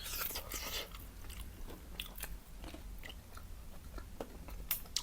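Close-miked biting and chewing of crunchy food, with a dense crunch in the first second and scattered sharp crackles after.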